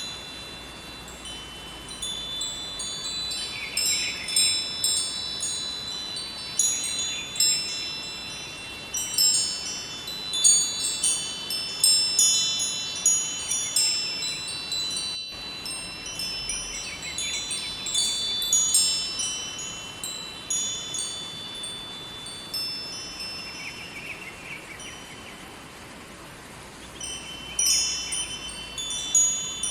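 Metal wind chimes ringing in irregular clusters of high, bell-like tones over the steady rush of a river. The chiming thins out for a while in the last third and picks up again near the end.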